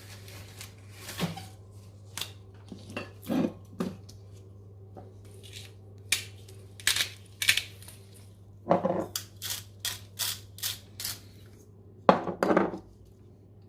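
Kitchen handling sounds while chicken is seasoned: scattered short clicks and taps of utensils and seasoning containers on the counter, with a quick run of taps about two-thirds through and a couple of louder knocks. A faint steady low hum sits underneath.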